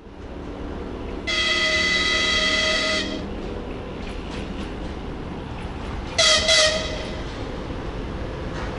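TEP70BS diesel locomotive sounding its horn as the train approaches: one long blast about a second in, then two short blasts about six seconds in, over the steady low rumble of the train.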